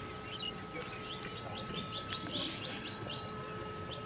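Small birds chirping outdoors: a quick series of short, high, falling chirps, over a faint steady drone.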